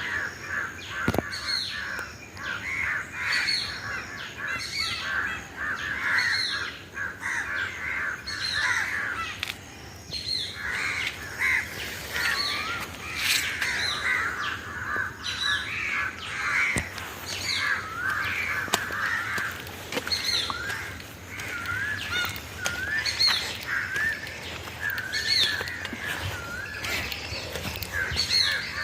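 A busy chorus of birds calling, with many short, overlapping calls and chirps and a falling note repeated every second or so.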